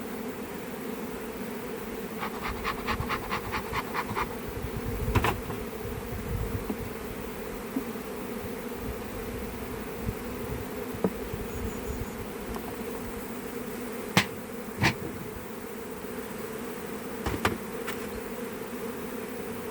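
Swarm of honeybees buzzing in a steady hum. There is a rapid run of ticks, about six a second, a couple of seconds in, and a few sharp clicks or knocks later on.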